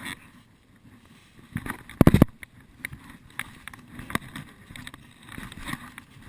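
Rustling and scattered crackles of someone moving through forest undergrowth, with one loud thump about two seconds in.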